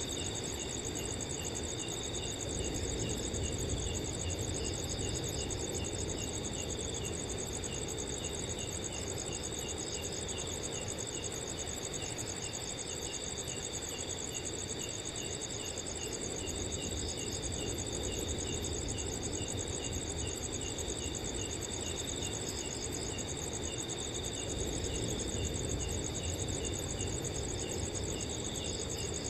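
Crickets chirping at night: several insects at once, some in a steady high trill and one in short chirps at an even pace, over a low, continuous rush of wind.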